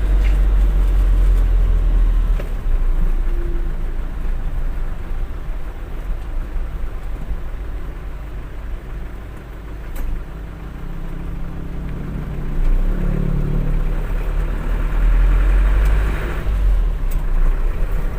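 Truck running on the road, a heavy low engine and road rumble that eases off about halfway through and builds again after.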